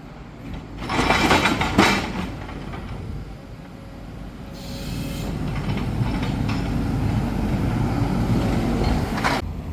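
Demolition excavator at work: a loud crunching, scraping burst of rubble about a second in, then the machine's engine running with a steady low rumble.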